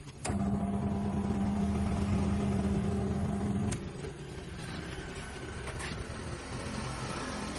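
A motor runs with a steady, even hum that starts suddenly just after the beginning and stops after about three and a half seconds, leaving a quieter background hum.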